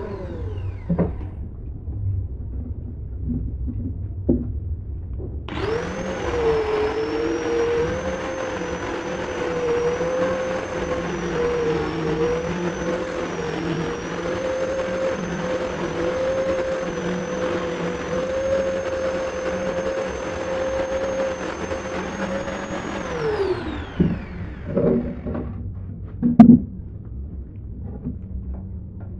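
A handheld electric power tool starts up about five seconds in and runs at a steady high speed with a high whine for about seventeen seconds. It then winds down and stops, followed by a few knocks and one sharp knock near the end.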